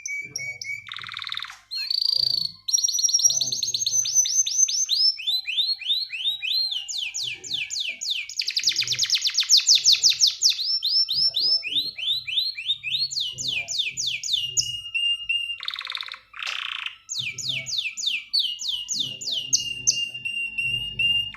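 Male canary singing a long, loud 'ngerek' song: rapid trills of repeated falling whistles that change speed, with held steady notes between phrases. The uploader presents it as a male calling a female, ready to breed.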